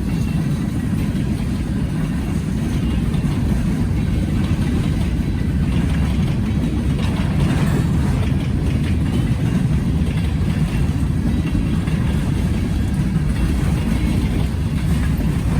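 Freight train of empty intermodal well cars rolling past, a steady low rumble of wheels on the rails.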